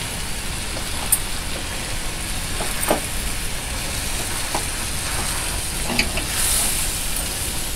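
Chicken and gongura (sorrel) leaves sizzling in oil in a pot, with a spoon stirring and a few sharp clicks against the pot.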